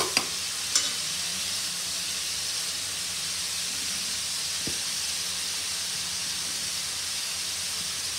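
Chopped onions and fresh dill leaves sizzling steadily in hot oil in a kadai, a constant frying hiss, with a couple of light clicks of utensil on pan near the start.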